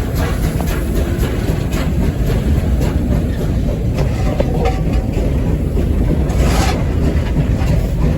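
Running noise of a steam locomotive heard from its cab: a steady low rumble with scattered knocks and clanks, and a short burst of noise about six and a half seconds in.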